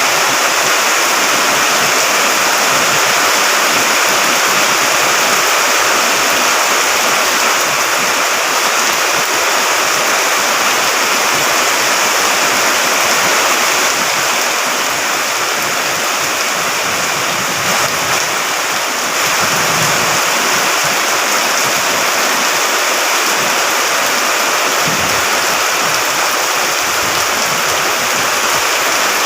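Fast-flowing water rushing loudly and steadily, typical of a stream swollen by continuous rain.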